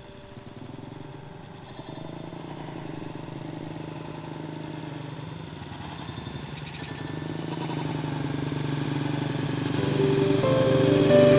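A small engine running steadily and growing louder, as if it is drawing nearer. Music comes in near the end.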